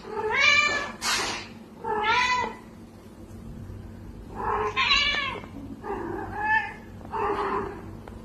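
A cat meowing about five times, each meow a separate pitched call lasting under a second.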